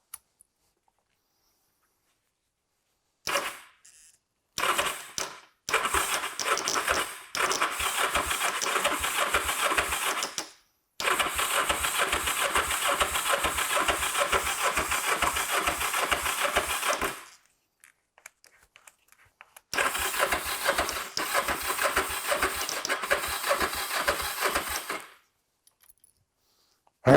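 Kawasaki GPZ500S parallel-twin engine cranked over on its electric starter in about five bursts, two short ones and then three long ones of several seconds each. It turns over without starting, after standing for four years with only a little petrol poured into the engine.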